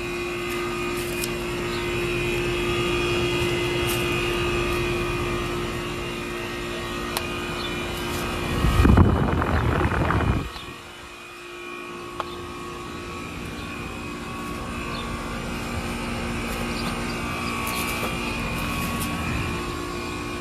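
Heat pump outdoor units running in cool mode: a steady hum from the compressor and condenser fan. About nine seconds in comes a loud rushing blast of about two seconds, then it drops off sharply and the hum comes back quieter and builds again.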